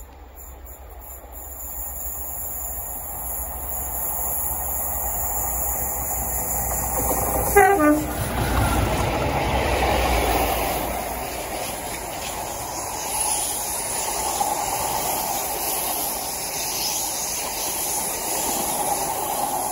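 A train passing close by: rumble and wheel noise build up and stay loud. About eight seconds in, a brief horn note drops in pitch.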